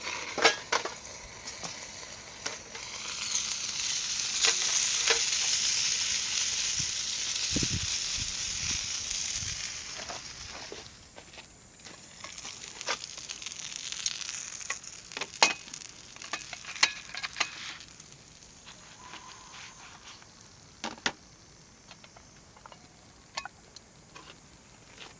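Pizza on gyoza wrappers sizzling in a hot sandwich maker over a charcoal fire. The sizzle swells a few seconds in, fades, and comes back more weakly later, with scattered sharp clicks.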